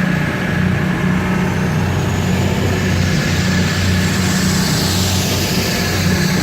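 Class 222 Meridian diesel multiple unit pulling out, its underfloor diesel engines running steadily under power with a steady low hum, and a faint high whine that rises and falls midway.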